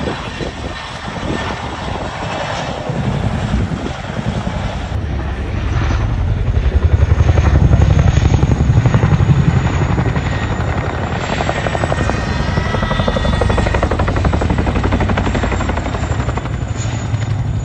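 Boeing CH-47 Chinook tandem-rotor helicopter flying by, its twin rotors giving a rapid, even chop over a high turbine whine. It grows louder to a peak about halfway through, then eases off slightly.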